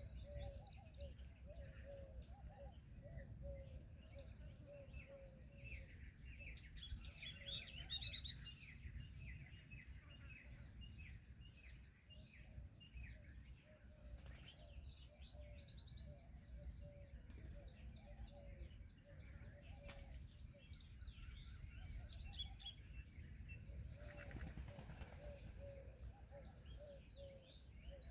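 Many small birds chirping and twittering, with runs of repeated short low notes, over a steady low rumble.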